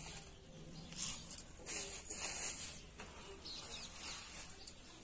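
Faint bird chirps in the background, with a few brief soft rustles.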